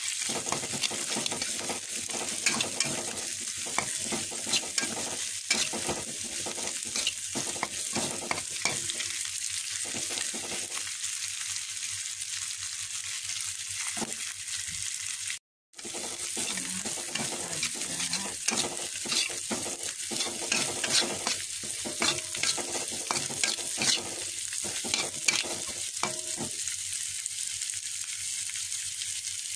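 Ground chilli-and-shallot spice paste sizzling in hot oil in a pan, stirred and scraped with a metal spatula, with many small pops and scrapes over a steady sizzle. The sound drops out briefly about halfway through.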